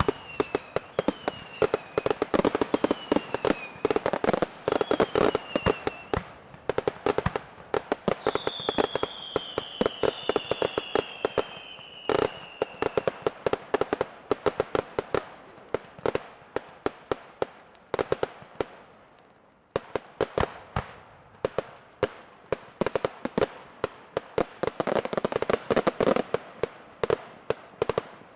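Fireworks going off without pause: a dense run of sharp bangs and crackles. Several whistles fall in pitch during the first half.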